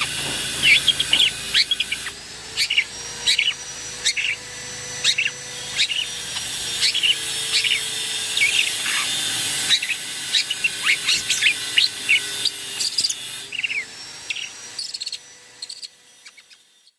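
Young long-tailed shrike (cendet) singing: a quick run of short, sharp chattering and chipping calls repeated in bursts, over a steady high hiss. It fades out near the end.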